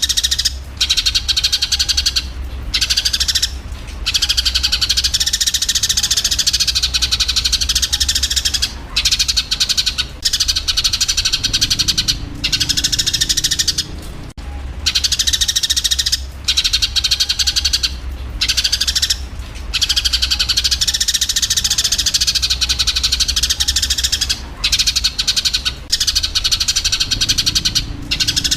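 Eurasian tree sparrows chattering and chirping rapidly and harshly, the agitated calls of sparrows fighting. The calls are loud, high-pitched and nearly continuous, with short breaks, over a steady low hum. The sequence seems to start over about halfway through, as in a looped recording.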